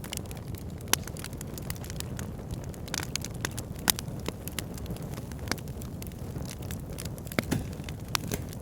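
Wood fire in a backyard fire pit burning steadily, with a low rumble of flames and sharp, irregular crackles and pops.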